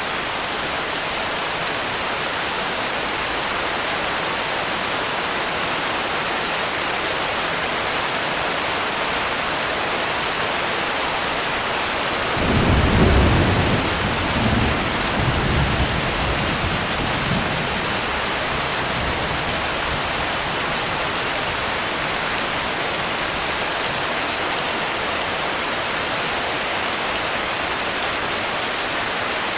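Steady rain as an even hiss, with a thunderclap about twelve seconds in that rumbles on in a few swells for about five seconds before fading back into the rain.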